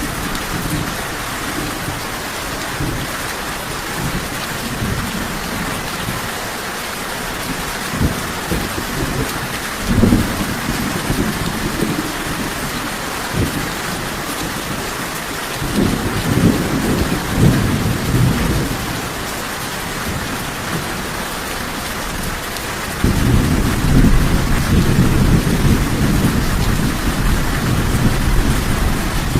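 Steady heavy rain hissing, with rolls of low thunder. There are brief rumbles around a third of the way in and a longer one past the middle, and a deeper rumble comes in suddenly near the end and keeps going.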